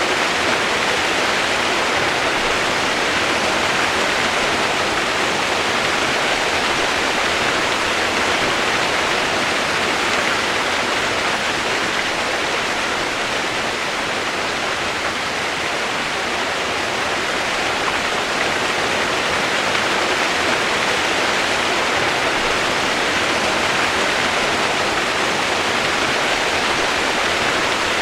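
Rushing water, a steady, even hiss that does not change.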